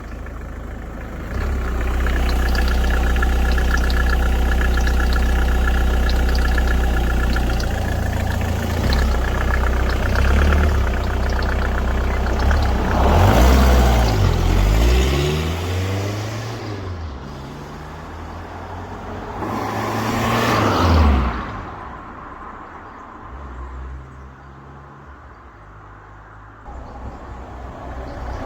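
Mk3 Volkswagen Golf's diesel engine running steadily at idle, then revved up and let fall back about halfway through and again about two-thirds of the way through, settling quieter near the end.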